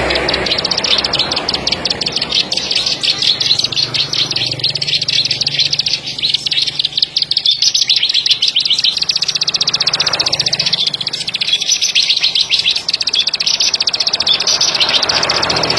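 Ciblek sawah, a small paddy-field prinia, singing a long, fast run of sharp, high clicking notes, many per second, with a brief break about halfway through.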